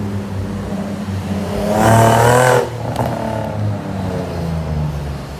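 Car engine running steadily, with a quick loud rev about two seconds in, then settling back.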